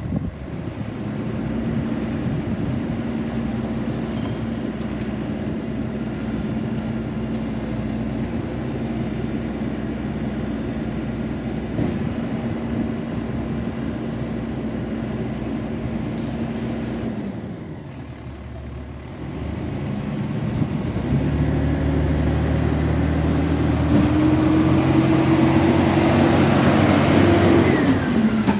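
Garbage truck engine running at a steady pitch, easing off about two-thirds of the way in, then revving up in steps and dropping back near the end.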